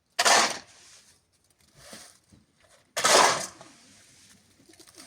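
A tool working wet cement mix: two harsh scraping strokes about three seconds apart, each sudden and lasting about half a second.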